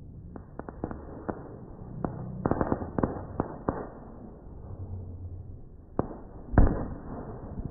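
Fireworks going off: a rapid run of sharp cracks and pops over the first few seconds, then a lone crack and one loud bang near the end.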